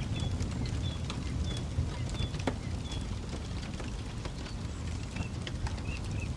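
Campfire crackling with sharp irregular pops over a steady low rumble, while a bird chirps repeatedly in the background, its short calls changing to a lower pitch near the end.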